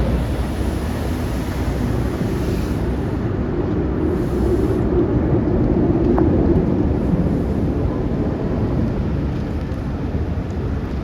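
Steady low rumble of a train rolling past, swelling slightly in the middle.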